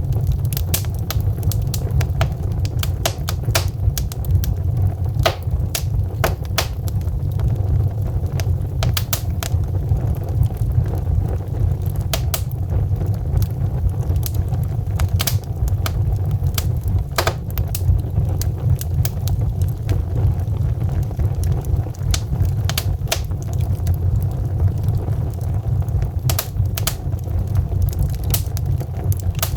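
Wood fire burning in a fireplace: a steady low roar of flames with frequent irregular crackles and snaps from the burning logs.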